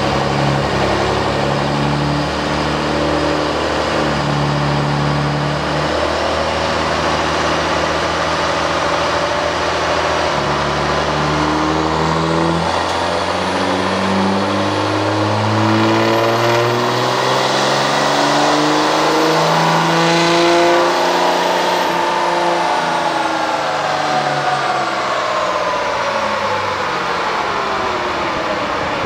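2005 Dodge Cummins 5.9-litre inline-six turbo-diesel under load on a chassis dyno. The engine note rises and falls back in steps. A high turbo whistle climbs to a peak about two-thirds of the way through, then the engine and turbo wind down.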